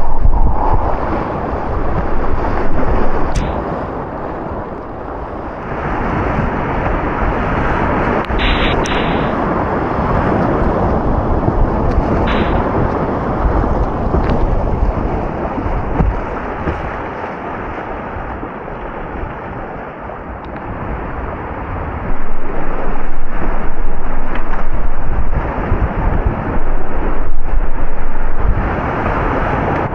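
Class III whitewater rapids rushing and splashing, loud and rumbling, with many short knocks and thuds of water against the microphone. It eases off in the middle and swells again about two-thirds of the way through.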